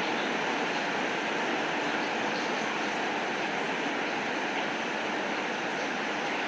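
Steady rain, an even hiss with faint scattered ticks.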